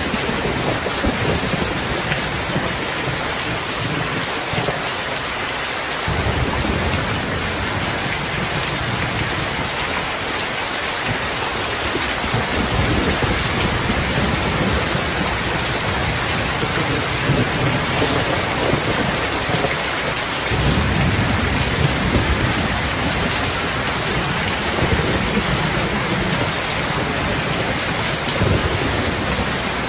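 Heavy rain falling steadily, with low rolling thunder rumbling underneath that swells several times.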